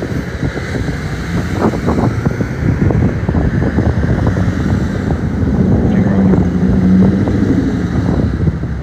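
Wind buffeting the microphone over street traffic noise. A vehicle's low engine hum swells about two thirds of the way through and fades near the end.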